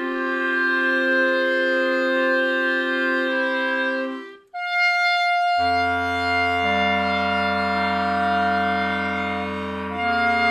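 A clarinet quartet plays held chords in close harmony. About four and a half seconds in the chord breaks off, and after a short pause a new held chord enters with a low bass note beneath it. Some of its upper notes move near the end.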